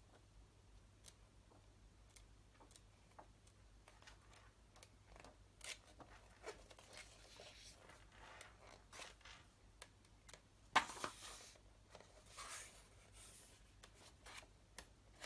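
Magazine pages being leafed through by hand: faint paper swishes and light taps and clicks, the loudest page turn about eleven seconds in.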